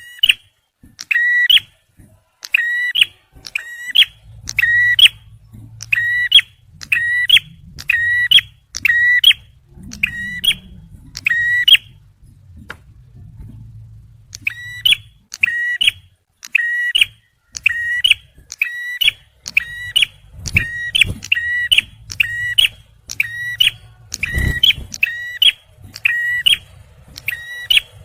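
Male prinia (prenjak merah) giving its loud 'tembakan' call, one short ringing note repeated a little faster than once a second, with a pause of about two seconds near the middle. A faint low hum runs underneath, with a couple of soft thumps.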